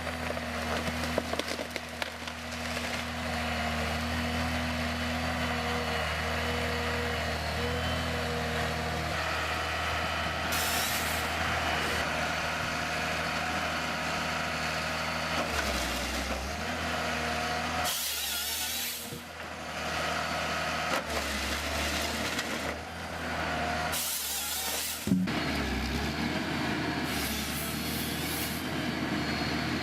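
Heavy diesel machine running steadily, with three short bursts of hissing air: about a third of the way in, past halfway, and near the end. A short sharp knock follows the last hiss.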